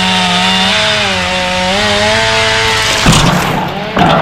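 Chainsaw running at high revs, its pitch sagging briefly under load about a second in. Two heavy thuds land about three and four seconds in.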